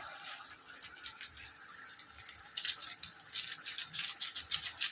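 Chicken curry cooking in a pan, with a quick, irregular run of faint crackles that starts about halfway through.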